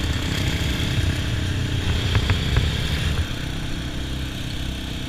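Motorcycle engines idling with a steady low rumble, a few light clicks about two seconds in, and the engine sound dropping a little after three seconds.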